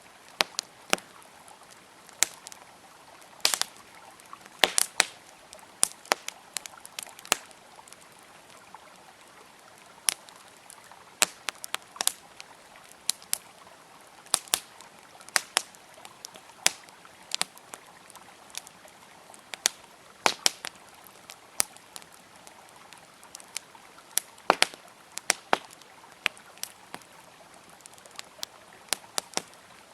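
Wood fire crackling with irregular sharp pops and snaps over a steady rush of flowing river water.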